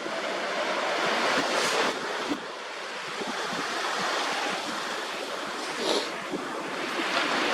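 Small sea waves washing and lapping on the shore, a steady wash of surf that swells for the first couple of seconds, eases, then builds again near the end. Wind rumbles on the microphone.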